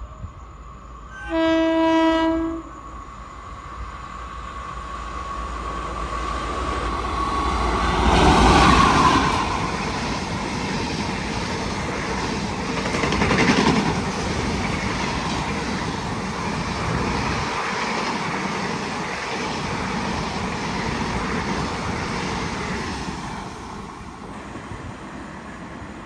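Locomotive horn sounding one short blast about a second and a half in, then a passenger train of ICF coaches running through the station at speed. The rumble and clatter build to a peak as the locomotive passes, carry on steadily while the coaches go by, and die away near the end.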